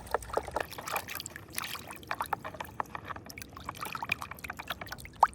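Water pouring and splashing over a dirty plastic toy truck as it is washed: a run of quick, irregular drips and splashes, with one sharp tap near the end.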